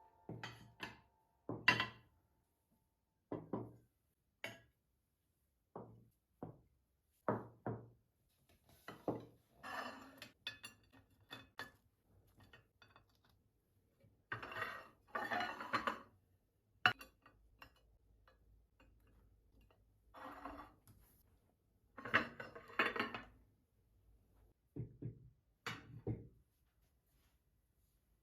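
Kitchen handling sounds: dishes and cutlery knocking and clinking in short, irregular clatters, with a few longer spells of clattering.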